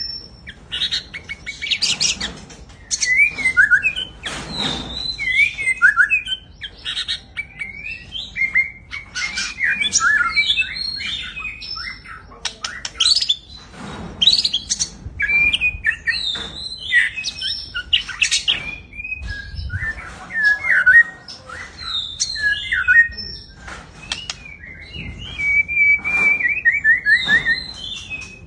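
White-rumped shama (murai batu) singing energetically: a long, varied run of loud whistles, quick slides and chattering trills, ending in a fast string of repeated notes.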